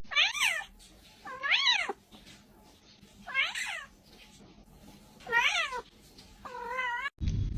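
Cat meowing five times, each meow rising then falling in pitch; the last is lower and wavers.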